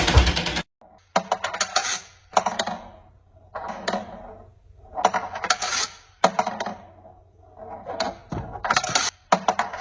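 Clinking, rattling clatter of small hard objects, coming in about six separate bursts that each ring out briefly.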